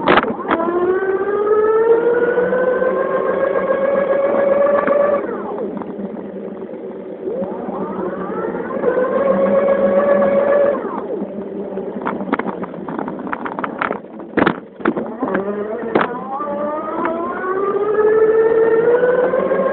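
1200-watt Cyclone electric bike motor whining as the bike accelerates, three times. Each time the pitch rises over a few seconds, holds, then cuts off suddenly as power is let off. Sharp clicks and knocks come just before the start and again about twelve to sixteen seconds in.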